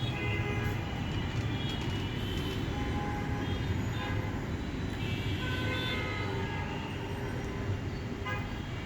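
Steady rumble of road traffic with short, scattered horn toots.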